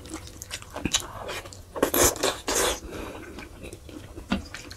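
Close-up mouth sounds of a person chewing sheep-head meat, with small clicks of fingers picking at the meat and a couple of louder smacks about two seconds in.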